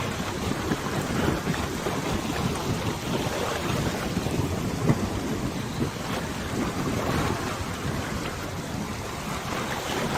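Wind buffeting the microphone over open river water, a steady rushing noise heaviest in the low end that swells and eases unevenly in gusts.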